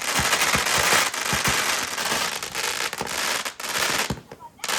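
Consumer fireworks going off in a dense barrage of sharp pops and crackling, easing briefly about four seconds in before more bangs.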